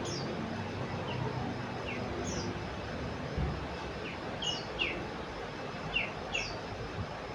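Common iora (cipoh) calling: a scattered series of short, high, falling chirps, some in quick pairs, over a steady background hiss.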